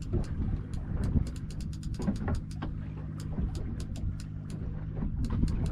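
Boat engine idling with a steady low hum, under a run of quick sharp ticks from a fishing reel's ratchet, several a second, while a big fish is played.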